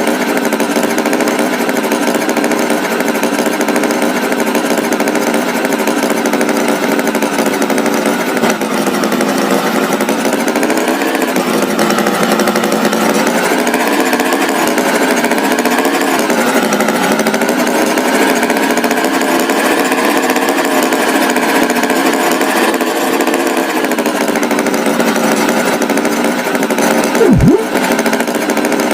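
Tractor engine sound effect running steadily, its pitch wavering slightly up and down. A brief sliding tone cuts in near the end.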